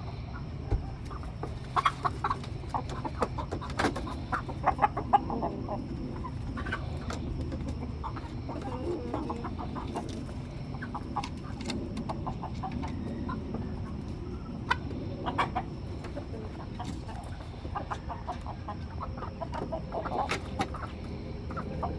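Domestic chickens clucking, short irregular clucks coming in clusters, busiest a couple of seconds in, around the middle and near the end, over a steady low hum.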